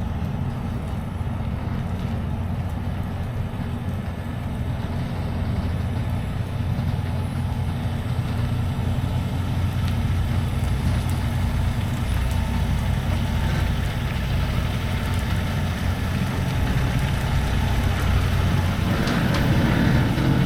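Semi-truck's engine and road noise while driving down the road, a steady low rumble.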